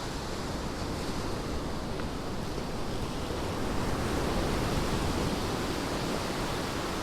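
Ocean surf breaking and washing up the beach as a steady noise, with wind on the microphone; it swells a little about four seconds in.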